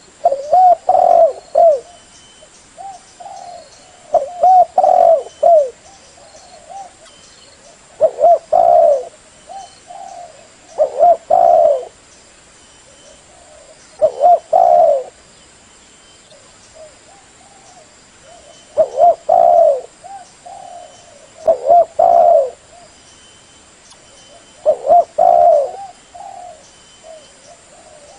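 Female spotted dove cooing: short phrases of a few low coo notes, repeated about every three seconds. This is the female call used as a lure to draw other doves in.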